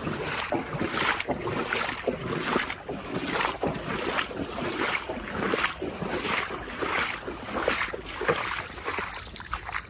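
Footsteps wading through shin- to knee-deep floodwater, a slosh and splash with each stride, roughly one step every 0.7 seconds.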